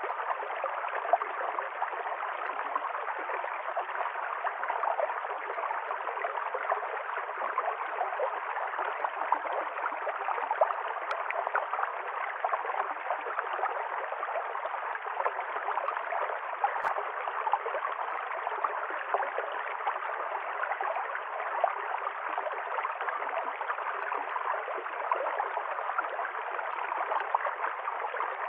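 Small river stream flowing and gurgling steadily over rocks, an even rush of water dotted with small splashes.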